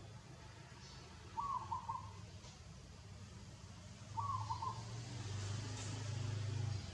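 A short pulsed animal call, each about half a second long, heard twice about three seconds apart. A low steady hum comes in with the second call.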